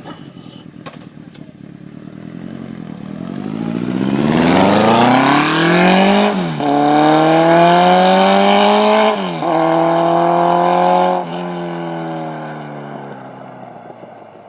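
Honda CB1300's inline-four running through a Delkevic 350 mm aftermarket muffler. It idles briefly, then revs up, with sharp drops in pitch at three upshifts as it accelerates. The sound then fades away.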